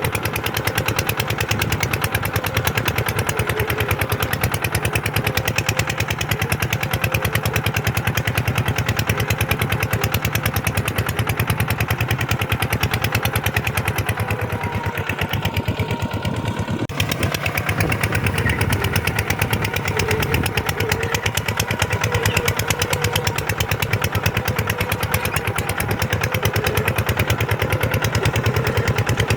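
Kubota tractor's diesel engine running steadily with a fast, even firing beat while pulling a plow through sandy ground.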